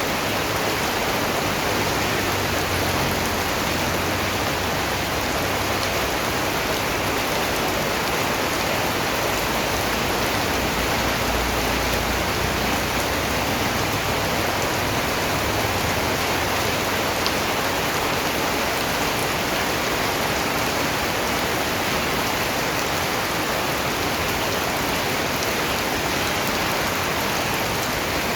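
Steady rain falling, a continuous even hiss of dense raindrops that keeps the same level throughout.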